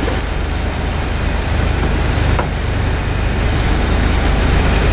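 1992 Ford Ranger pickup being driven, its engine running steadily under road noise and getting slightly louder.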